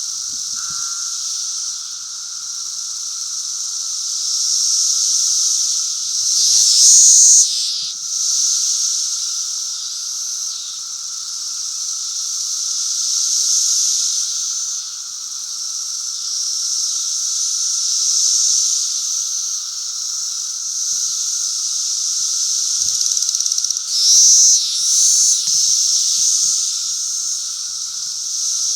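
Chorus of Brood V periodical (17-year) cicadas calling: a loud, steady high hiss that slowly swells and fades, with a lower droning tone beneath it. Twice, about 7 and 24 seconds in, it briefly grows louder.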